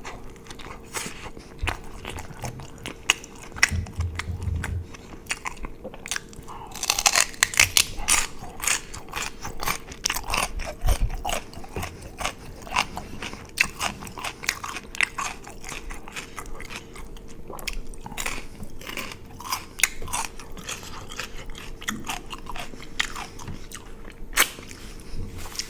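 Close-miked chewing of a bite of In-N-Out burger: a stream of wet clicks and soft crunches, thickest for a few seconds starting about a third of the way in.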